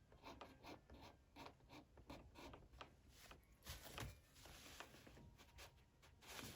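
Faint, quick scraping strokes of a small blade over parchment, lifting softened old glue off the back of the tab.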